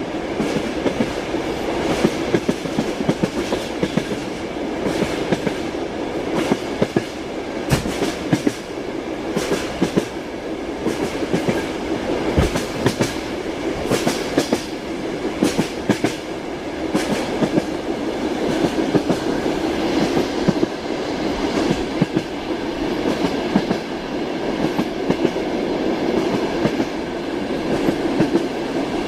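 Passenger train carriage heard from inside a compartment: a steady rumble of the moving car with repeated clickety-clack of the wheels over rail joints, coming in groups of sharp knocks.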